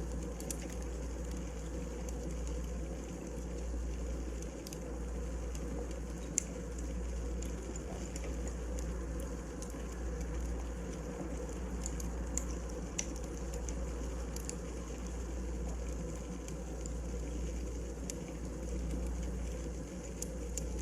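Wood fire crackling in a fireplace: a steady low rumble and hiss of burning logs with scattered sharp pops, the sharpest about six seconds in.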